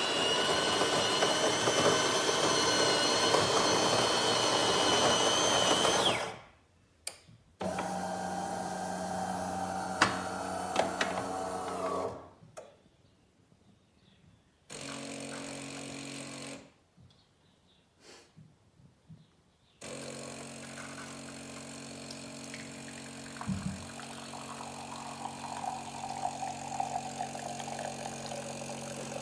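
De'Longhi Magnifica S fully automatic espresso machine running through a cycle: about six seconds of loud grinding from its burr grinder, then a lower motor whir for about four seconds, a short hum, and from about twenty seconds in a steady pump hum.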